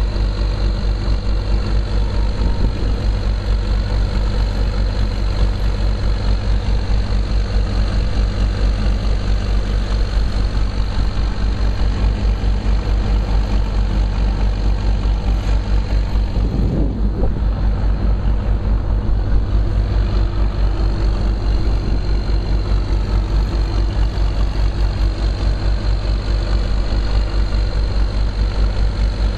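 Diesel locomotive engine running steadily, with a deep, fast, even pulse.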